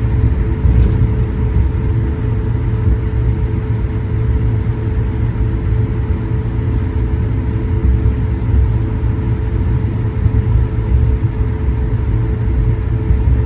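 Cabin noise inside an Airbus A220-100 with its geared turbofan engines running at steady power: a constant low rumble with a steady hum over it.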